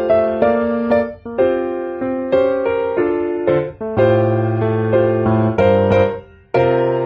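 Background piano music: a slow, gentle melody of chords on an electric or acoustic piano, with two brief pauses between phrases.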